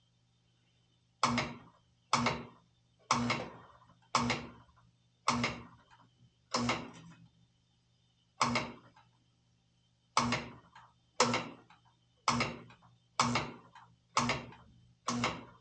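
Oil burner's ignition being switched on and off over and over: about thirteen sudden bursts, roughly one a second, each fading within half a second, over a low steady hum. This is a check of the igniter for delayed spark, the cause of nuisance lockouts.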